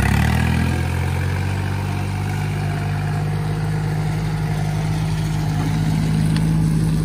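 Iseki tractor's diesel engine running steadily under way. Its note shifts slightly about a second in, then holds even.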